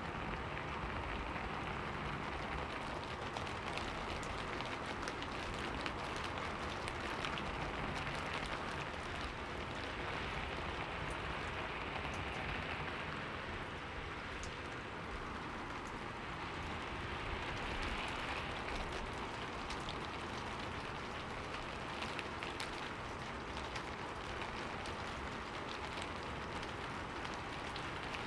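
Steady rain pattering on a window, with many small drop clicks over an even hiss.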